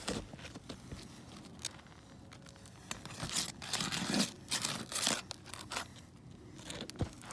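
Scraping and crackling handling noises: scattered clicks, then a dense run of rough scrapes between about three and five seconds in.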